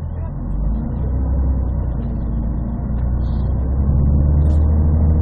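Scania CN113CLL city bus heard from on board: its Scania DSC11 diesel engine with Voith automatic gearbox running under way as a deep rumble. The rumble grows louder about a second in and again near four seconds. It sounds muffled and bass-heavy through a partly covered phone microphone.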